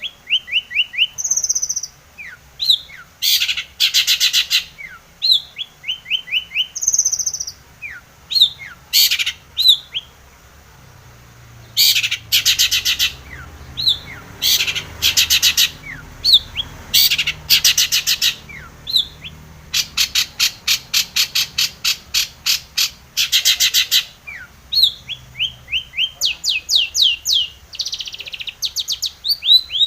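Long-tailed shrike (cendet) singing: harsh rasping chatters alternate with quick runs of short down-slurred whistled notes. About twenty seconds in, it gives a long, fast rattling run.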